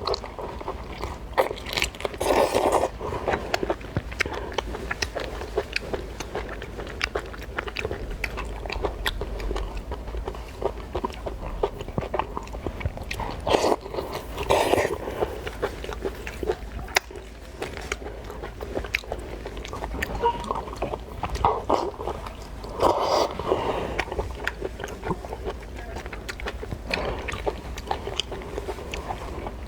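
Close-miked chewing of raw lobster sashimi: steady mouth noises with many small wet clicks, and a few louder bites.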